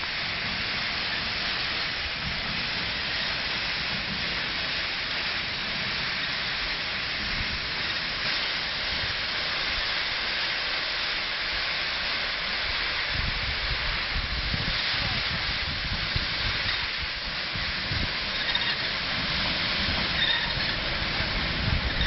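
Steady hiss of steam from a GWR Castle class steam locomotive standing on a turntable. Uneven low rumbles join in from about halfway through.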